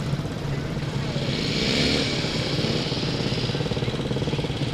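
TVR Chimera's V8 engine rumbling steadily as the car drives past, its note rising and falling once about one and a half to two seconds in.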